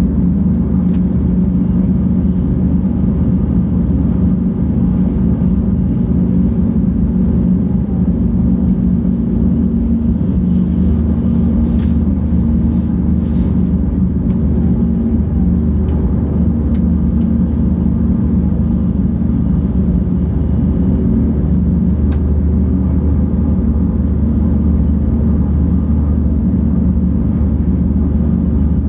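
Steady low rumble of a 700 series Shinkansen running on the line, heard from inside the passenger cabin.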